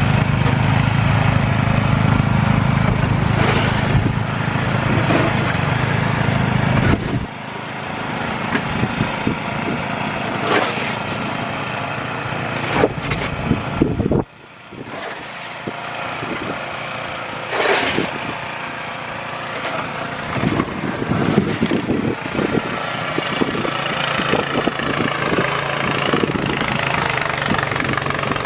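Snow blower engine running under load in heavy snow, which the owner says is too much for the machine. Its sound drops about seven seconds in and again about halfway through, after which it runs quieter with scattered scraping noises.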